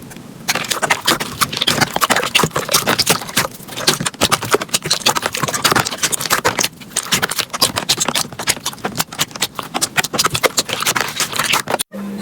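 Slime being squeezed and worked, a dense run of small crackles and pops that starts about half a second in and cuts off just before the end.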